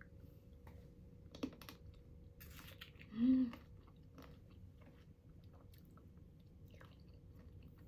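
Quiet chewing with small scattered mouth clicks, and a brief pleased "mm" hum about three seconds in.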